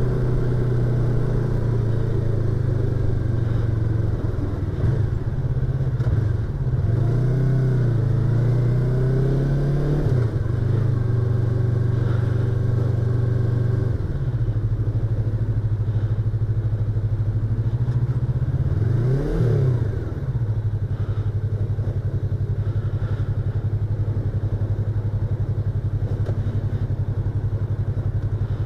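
Yamaha YZF-R25's parallel-twin engine running under way, heard from a microphone inside the rider's helmet. The engine note holds steady for long stretches and changes pitch several times with gear changes and throttle, with a brief quick rise and fall about nineteen seconds in.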